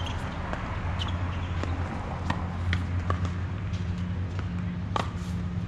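Irregular sharp knocks and taps from a ball game in play, roughly one or two a second, over a steady low hum.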